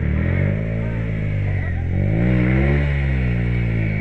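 Off-road motorcycle engine revving up and down, its pitch rising to a peak about three seconds in and then falling away.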